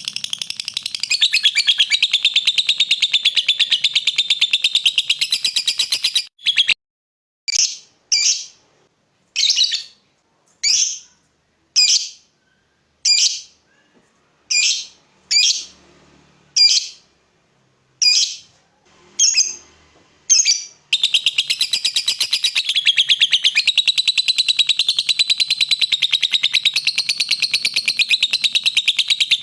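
Lovebird singing: a long, rapid, continuous chattering trill, which breaks off about six seconds in into a string of about a dozen separate sharp chirps roughly a second apart, then runs on as continuous chatter again from about two-thirds of the way through.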